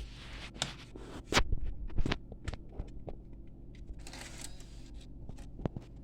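Scattered clicks, knocks and rustles of hardware being handled on a workbench, the loudest knocks a little over a second and two seconds in, with a steady low electrical hum underneath.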